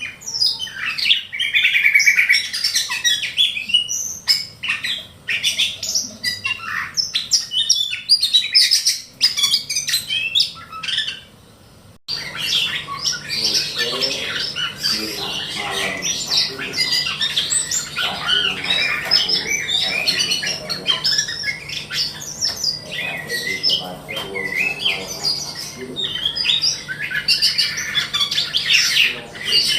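A ciung batu kecil (small whistling thrush) singing a dense, rapid run of short, varied notes and harsh calls. About 12 seconds in, the sound breaks off abruptly and resumes with a steady low hum beneath the song.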